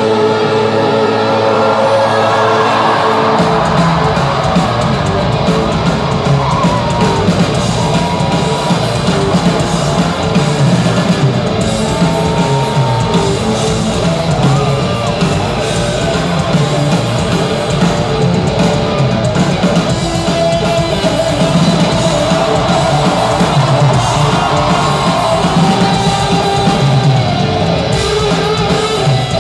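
Live rock band playing at full volume with guitar and vocals. The bass and drums come in about three seconds in.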